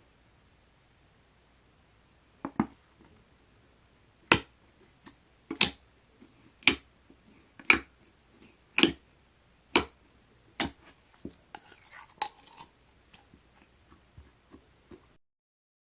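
Clear slime with pearl powder being pressed and pulled by hand, giving a series of sharp pops about once a second, then smaller, softer pops and crackles before the sound stops.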